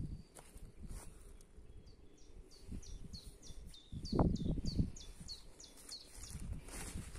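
A songbird singing a long run of short, high, down-slurred notes, about four a second, starting a couple of seconds in and running for about four seconds. Underneath are low thumps and rustling, loudest a little past halfway.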